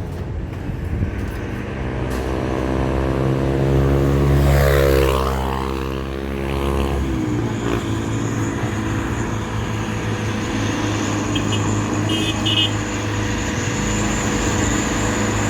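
Truck engine running, its pitch rising and then falling about five seconds in as it passes close by, followed by a steady engine drone.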